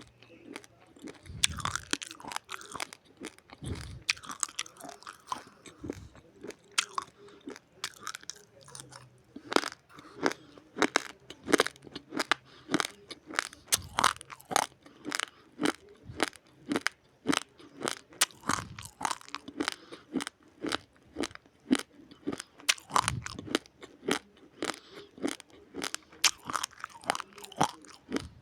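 A person chewing a mouthful of raw, uncooked rice, the hard grains crunching between the teeth, close to the microphone. The crunches are irregular at first, then settle into a steady chewing rhythm of about two or three sharp crunches a second.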